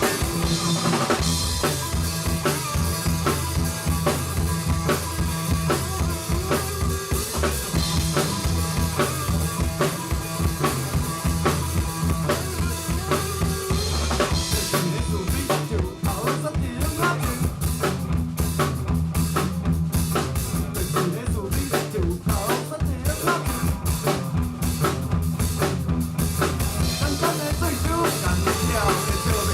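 A live band playing an instrumental passage driven by a busy drum kit, with kick drum, snare and rimshots over steady low bass notes.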